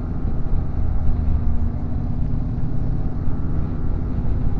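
Yamaha Ténéré 700's parallel-twin engine running steadily on the move, heard as a steady low rumble.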